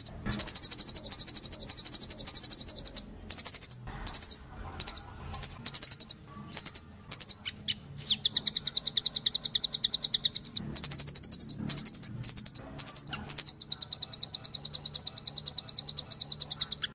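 Rambatan doraemon, the blue nuthatch, calling in fast high-pitched trills: long rattling runs of rapid notes broken by short pauses, with a single falling note about halfway through.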